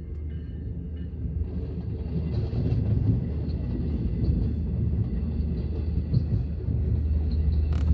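Diesel push-pull commuter train (C3 cab cars with a DE30AC diesel locomotive pushing at the rear) approaching and passing at a grade crossing. Its low rumble builds steadily louder.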